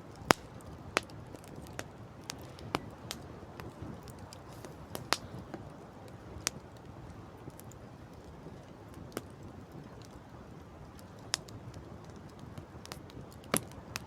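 Wood campfire crackling: irregular sharp pops and snaps, a few of them loud, over a steady low rush.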